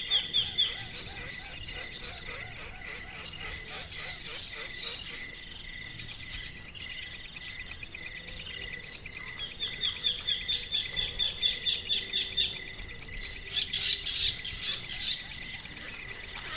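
High-pitched animal chirping: a steady run of short, evenly spaced chirps, about five a second, with shorter runs of quick chirps mixed in. It grows a little fainter near the end.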